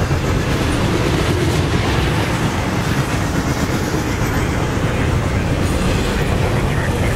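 CSX intermodal freight train rolling past, its double-stack container well cars and trailer flats making a loud, steady rumble of steel wheels on rail.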